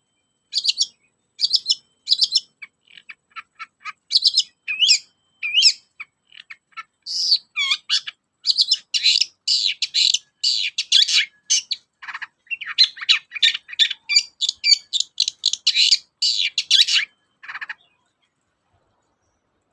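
Long-tailed shrike (cendet) singing a fast, chattering song of short, high-pitched notes in rapid runs, breaking off a couple of seconds before the end.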